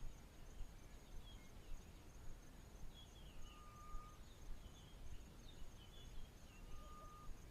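Faint bush ambience: birds calling in the distance, with a level whistled note twice and scattered higher chirps, over a steady, pulsing high insect trill and a low rumble.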